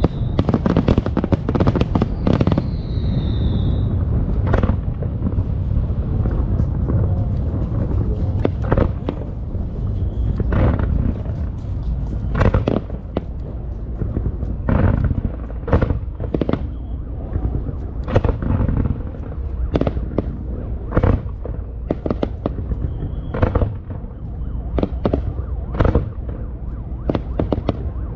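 Aerial fireworks bursting over and over: sharp bangs at irregular intervals over a constant low rumble, with a dense crackling flurry in the first few seconds. A falling whistle sounds about two to four seconds in.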